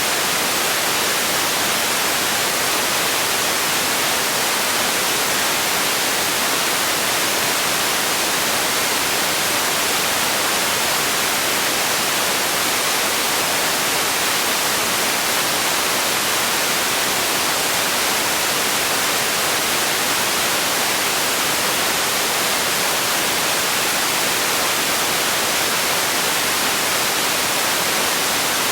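Steady white noise: an even, constant hiss, brighter in the treble than the bass, that never changes.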